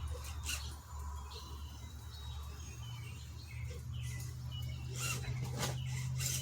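Redcat Gen7 RC crawler's electric drivetrain humming low and steady as it crawls over wet ground, with scattered clicks and knocks, and short high chirps in the background.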